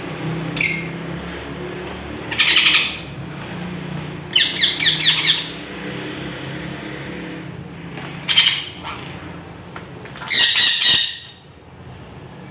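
A young parrot squawking in five separate bouts of harsh calls, one of them a quick run of several calls, over a steady low hum.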